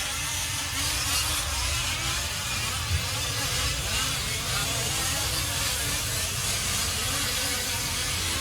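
Several 1/5-scale RC off-road trucks racing together, their small gasoline engines buzzing and revving. The pitches waver up and down as the trucks throttle on and off around the track.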